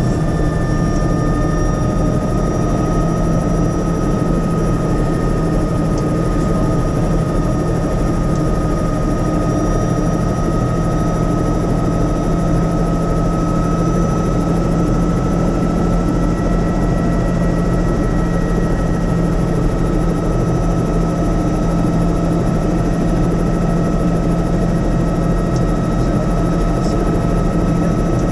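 Helicopter in flight heard from inside the cabin: steady rotor and engine noise, a low drone with a high whine held over it.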